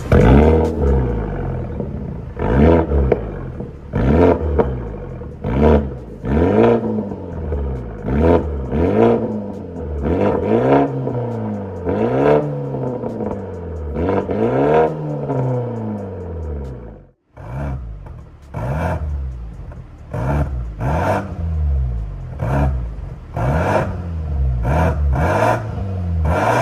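BMW 530i's B48 2.0-litre turbocharged four-cylinder free-revving through an MS-R valved catback exhaust: repeated throttle blips, each note rising and falling back. After a brief break about two-thirds of the way in, the blips come shorter and quicker.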